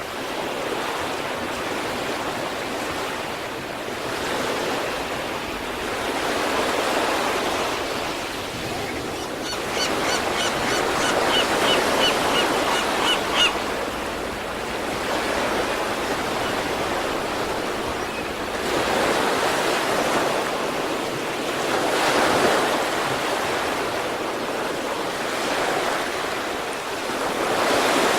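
East Sea surf: waves breaking and washing ashore, swelling and ebbing every few seconds. About ten seconds in, a short run of high, evenly spaced chirps sounds over the surf for a few seconds.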